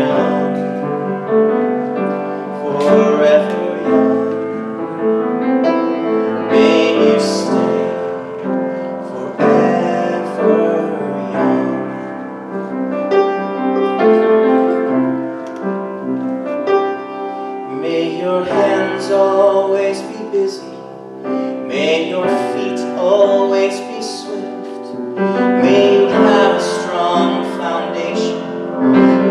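A solo singer performing a song with piano accompaniment.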